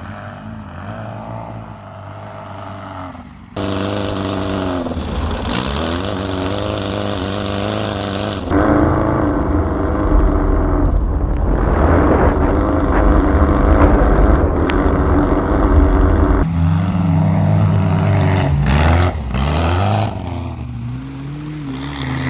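Volkswagen engine revving hard, its pitch rising and falling as it is driven. The sound jumps abruptly louder about three and a half seconds in and again a few seconds later, as if between separate shots.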